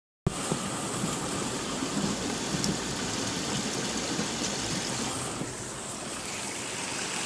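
Heavy rain falling steadily, a dense hiss of water on hard surfaces.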